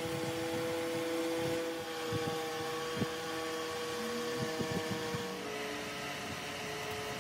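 A workshop machine running with a steady pitched hum, its pitch dropping slightly a little after five seconds in, and one sharp click about three seconds in.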